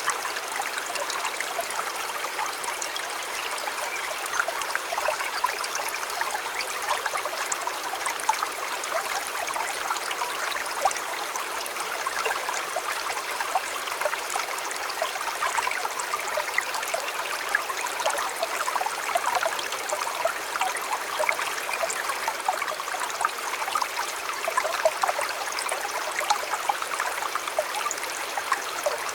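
Shallow river flowing steadily, a continuous rush with many small splashes and trickles over stones.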